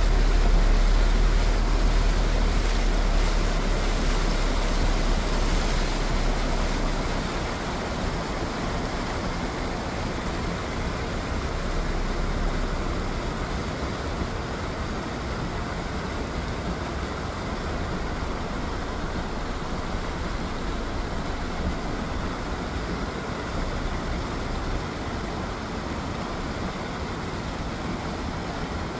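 Heavy rain falling as a steady, even hiss, with a low rumble under it for the first several seconds that then fades.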